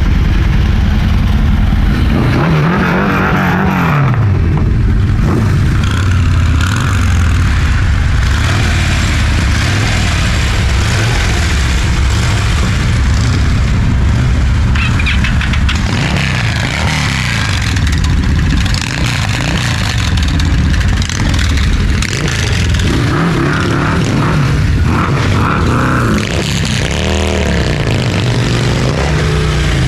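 Motorcycle engines running on the road, the pitch rising and falling several times as the rider accelerates and shifts, over a steady rush of wind noise.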